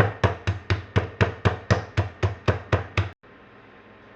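Meat mallet pounding chicken breast cutlets flat inside a plastic zip-top bag: steady rapid blows, about four a second, that stop suddenly a little after three seconds in.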